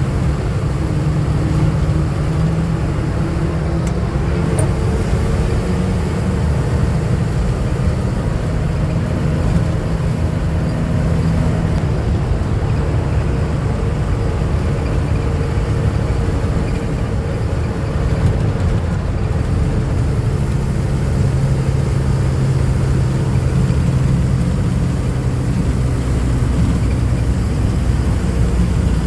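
Truck engine running steadily with a low drone, its pitch shifting a little about twenty seconds in.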